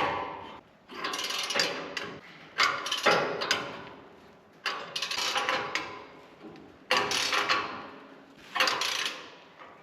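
Ratchet wrench clicking in about six separate strokes as bolts are tightened down tight, the wrench worked on a long bar made from a jack-handle extension.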